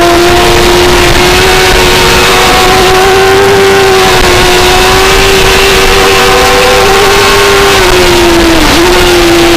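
2004 Suzuki GSX-R600 inline-four racing engine at high revs under load, recorded on board at speed; the pitch holds nearly steady, dipping briefly near the end before picking back up.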